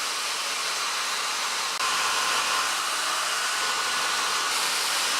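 Hair dryer blowing steadily, a little louder from about two seconds in.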